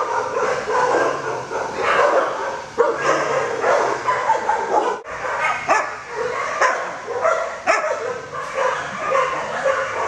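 Many dogs in a shelter barking, yipping and whining over one another in a continuous noisy chorus.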